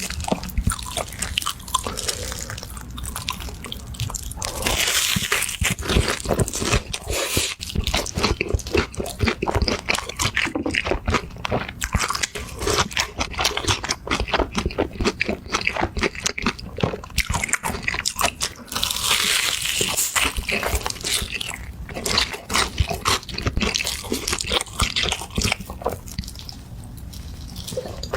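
Close-miked eating sounds: a person biting and chewing crisp food, with a dense run of crunches and a couple of longer, hissier stretches.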